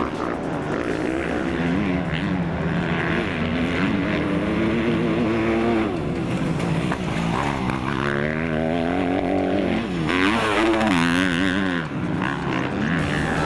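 Motocross bike engines revving hard, their pitch repeatedly rising and dropping as the riders accelerate and shift, with more than one bike heard at a time.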